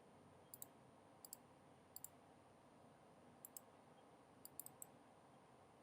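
Faint computer mouse clicks, sharp and mostly in quick pairs, in five or so groups spread over a few seconds.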